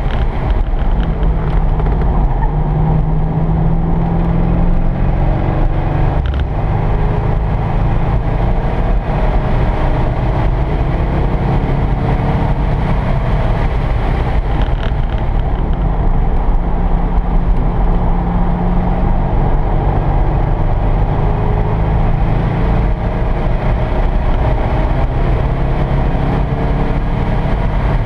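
C5 Corvette Z06's LS6 V8 engine heard from inside the cabin while lapping a road course: a heavy, steady rumble whose pitch climbs and falls several times as the car accelerates and lifts between corners.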